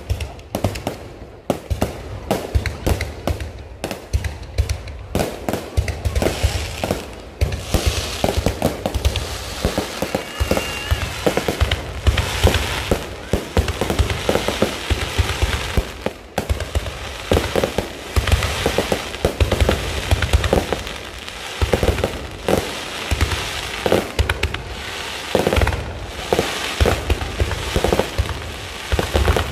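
Low-altitude fireworks display going off nonstop: a dense, irregular barrage of bangs and crackling, growing thicker after the first few seconds.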